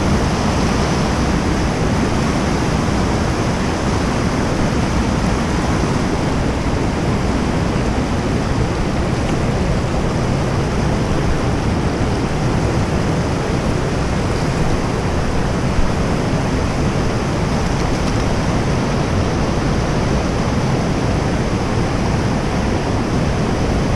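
Fast-flowing creek water rushing: a loud, steady wash of noise with no break.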